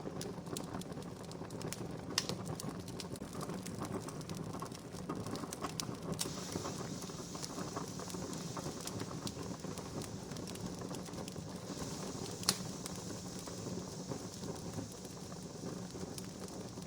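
Wood fire crackling steadily, with scattered snaps and two sharper pops, one about two seconds in and one about twelve seconds in. A higher hiss joins about six seconds in.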